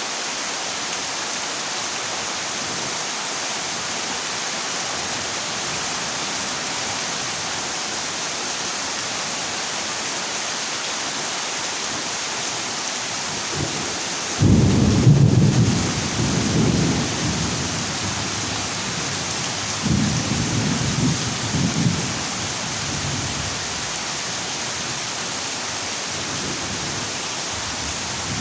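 Heavy rain falling on a corrugated zinc roof as a steady hiss. Thunder breaks in suddenly about halfway, the loudest sound, rumbling for a few seconds, and a second roll of thunder follows a few seconds later.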